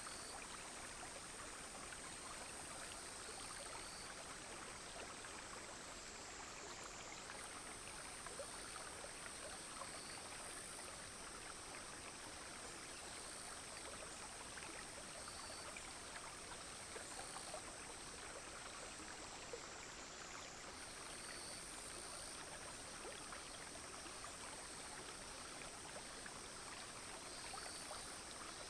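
A clear, shallow stream flowing and trickling steadily. Over it runs a high, continuous insect buzz that slowly sags in pitch and jumps back up twice, with faint short chirps every few seconds.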